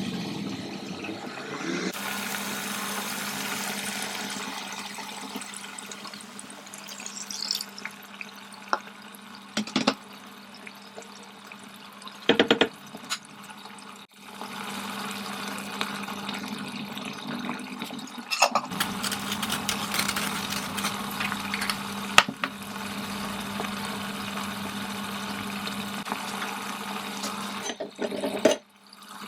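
Kitchen tap running water into a sink, the flow changing a few times, with a few sharp clinks and knocks of things being handled.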